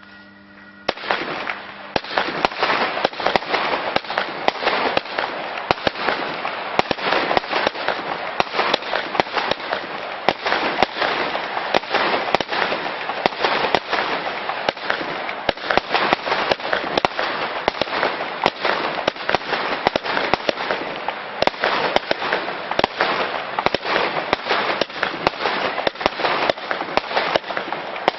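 Weco 'Dynasty' compound firework battery firing. From about a second in, shots and crackling bursts come in a rapid, unbroken stream.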